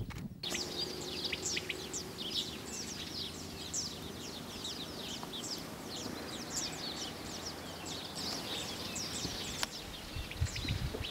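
Many small birds chirping together: a dense run of quick, high-pitched chirps overlapping one another.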